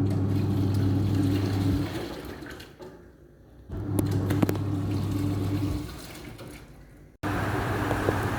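Fully automatic washing machine in its wash cycle: the drum motor hums as it tumbles the clothes through the water, with sloshing, in runs of about two seconds separated by short pauses. Near the end it runs steadily again.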